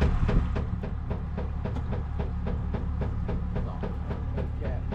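A thumper fish attractor knocking in a steady rhythm, about three to four knocks a second, over a steady low hum from the boat.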